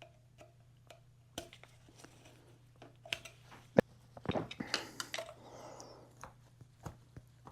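Scattered light clicks and taps of hands and a tool working a vacuum line off an engine, the sharpest snap about four seconds in, over a faint steady hum.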